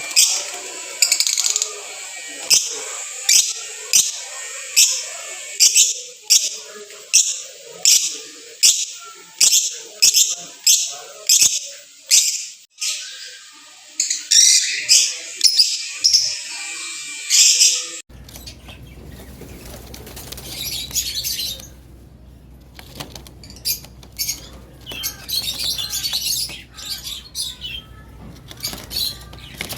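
Lovebirds calling: a run of shrill, evenly repeated chirps, about one to two a second, over softer chatter. About eighteen seconds in the sound changes abruptly to a low hum with scattered, quieter chirps.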